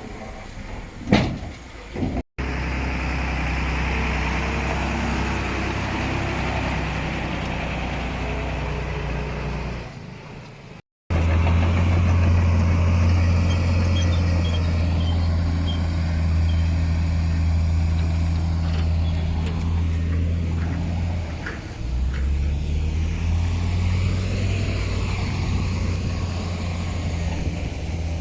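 Heavy diesel engine of earthmoving machinery running steadily, with a sharp knock about a second in. The sound drops out briefly twice at cuts, and the engine note steps up about three-quarters of the way through.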